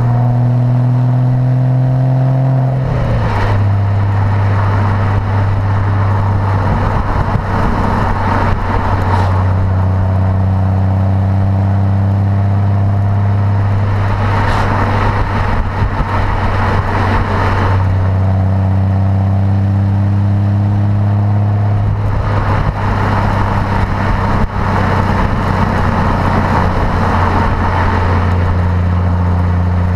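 Porsche Boxster with a sports exhaust, engine and exhaust running steadily under load while driving. The pitch climbs slowly and steps down a few times, as at gear changes.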